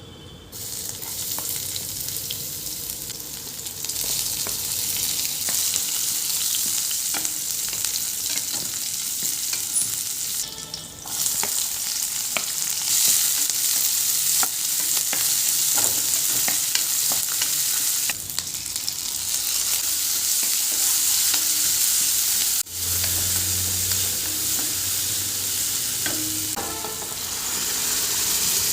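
Food frying in hot oil, sizzling steadily with small ticks from stirring. The sizzle breaks off briefly twice, about 11 and 23 seconds in.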